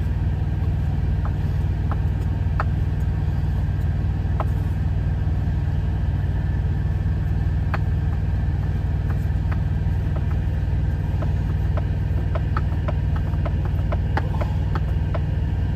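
Semi-truck engine idling with a steady low drone. Light scattered clicks and taps come over it, more often near the end.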